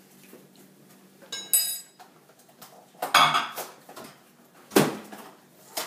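Dishes and cutlery clattering as a meal is put together: a ringing clink about one and a half seconds in, a louder clatter about three seconds in, and a sharp knock near the end.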